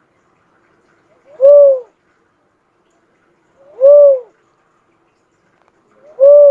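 Cuckoo-dove (burung uncal) cooing: single, even-pitched notes that rise and fall in one arch, repeated three times about two and a half seconds apart.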